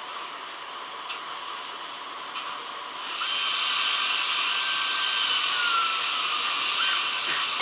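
H0-scale model trains running on the layout: a steady rolling hiss with a small electric motor's whine, louder from about three seconds in as a train passes close, one whining tone sliding down in pitch near the end.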